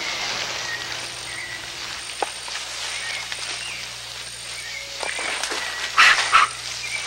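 Rainforest animal sounds: short chirps repeating every half second or so, over a high, pulsing insect-like whine. About six seconds in, a loud short call rings out twice.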